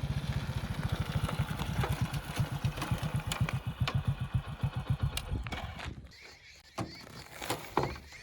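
Backhoe loader's diesel engine running with a steady, even chug of about nine beats a second, which fades out about six seconds in; a few sharp knocks follow near the end.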